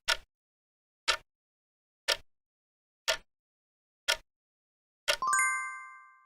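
Countdown-timer sound effect ticking once a second, six times, then a bell-like chime about five seconds in that fades over a second. The chime marks the end of the 10-second answer time.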